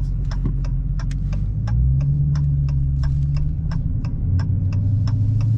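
Supercharged 6.2-litre Hemi V8 of a Dodge Challenger Hellcat running at low speed, its low drone stepping in pitch twice. Over it a turn-signal indicator ticks steadily, about three clicks a second.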